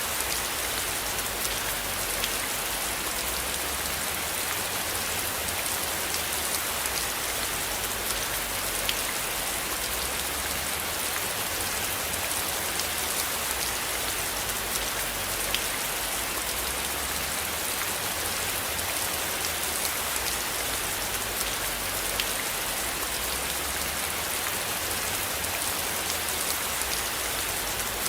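Steady rain falling on a surface, an even hiss with sharp individual drop ticks now and then.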